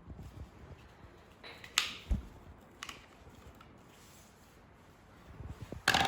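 A few separate clicks and knocks, like parts being handled: a sharp click a little under two seconds in, a low thump just after, another click, then a louder clatter near the end. No motor is running.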